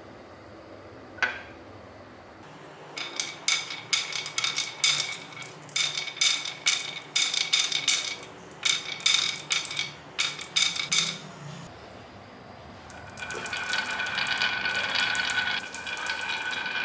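Small hard objects clattering: a quick run of sharp clicks with a bright ringing tone for about eight seconds, then a steadier rolling rattle near the end.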